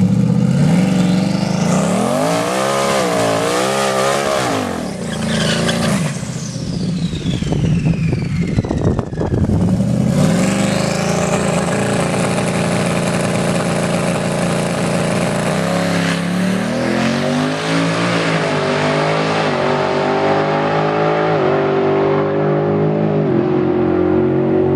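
Twin-turbo Ford Mustang drag cars' V8 engines revving and running hard on the strip. A high whine falls away over a few seconds in the middle, and engines keep revving steadily through the rest.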